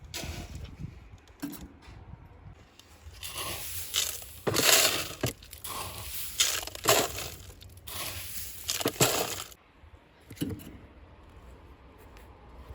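Crunching and crushing noises in a run of rough bursts through the middle, with a few sharp clicks before and after.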